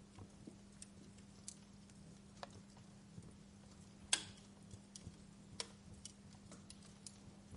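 Wood fire crackling: sparse, irregular sharp pops and snaps, the loudest about four seconds in, over a faint steady low hum.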